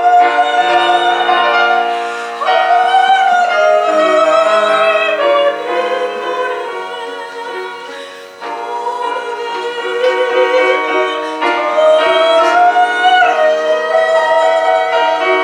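Soprano singing a Korean art song with piano accompaniment, holding long notes with vibrato. There is a brief drop in loudness a little past halfway before the voice comes back in.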